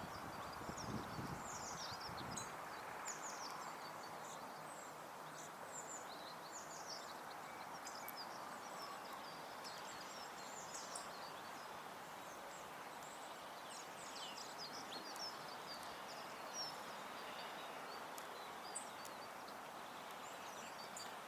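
Small garden songbirds chirping and calling in short, frequent high notes at a feeder, over a steady background rush of outdoor noise. A few low knocks sound in the first couple of seconds.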